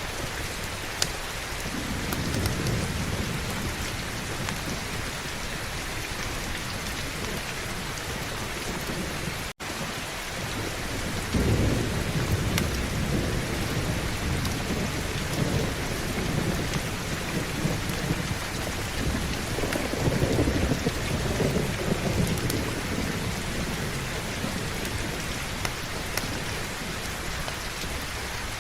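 Steady heavy rain with rolling thunder: low rumbles swell about two seconds in, again from about eleven to sixteen seconds, and around twenty seconds. The sound cuts out for a split second about a third of the way through.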